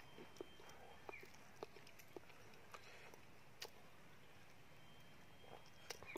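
Near silence, broken by faint, scattered mouth clicks from a man chewing a roasted egg.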